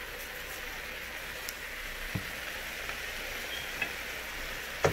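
Sliced bell peppers and onions sizzling steadily in a pot in a little olive oil: an even, crackly hiss, with a couple of light knocks.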